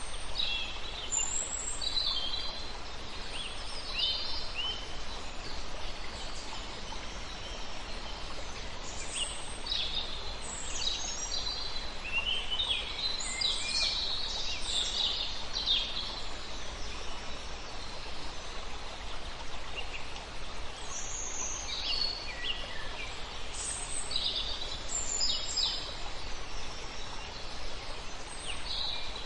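Songbirds chirping and singing in short bursts of high notes, busiest about halfway through with a quieter lull after, over the steady rush of a river.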